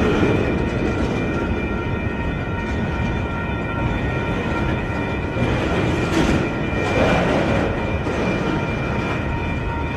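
Train running past at speed, its wheels rumbling continuously over the rails with a steady high whine on top.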